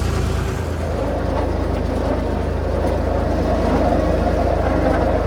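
A vehicle's engine running steadily with a low, even drone.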